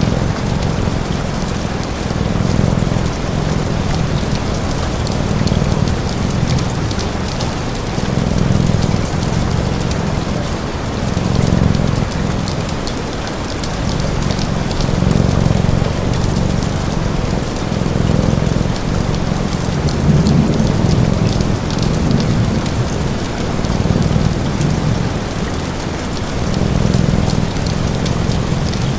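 Steady rain with crackling from a fireplace, over a cat's low purr that swells and fades about every three seconds as it breathes.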